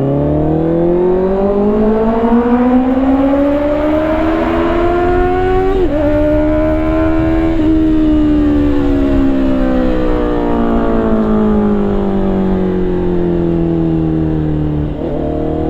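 Kawasaki ZX-10R inline-four sport bike engine under way. It pulls up through the revs for about six seconds, shifts gear quickly, holds briefly, then eases down in revs for several seconds, with another quick shift near the end.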